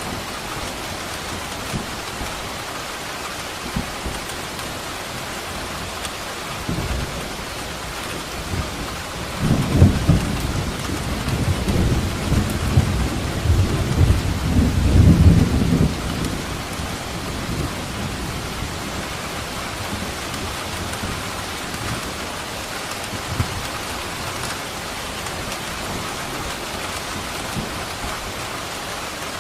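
Steady heavy rain, with a long roll of thunder that builds a few seconds in, rumbles loudest for about six seconds in the middle, and dies away.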